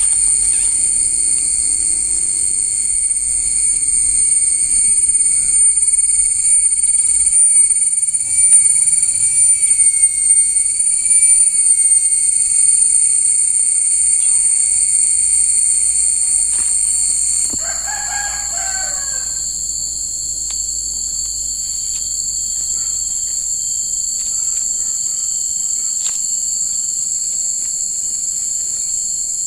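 Steady high-pitched insect chorus, several continuous shrill tones layered together, one of them dropping out about two-thirds of the way through. A rooster crows once at that same moment, about eighteen seconds in.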